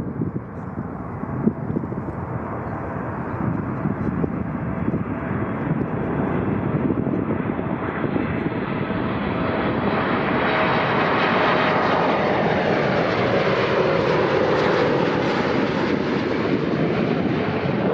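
Jet airliner passing close: engine noise builds over several seconds, then its whine falls steeply in pitch as the aircraft goes by.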